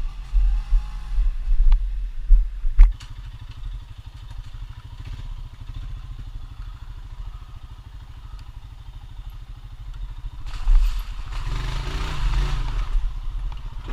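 ATV engine running steadily at a low rumble, with a few sharp knocks and clatter in the first few seconds. About ten seconds in the engine note rises and a louder rush of noise builds for a couple of seconds as the machine is pushed harder.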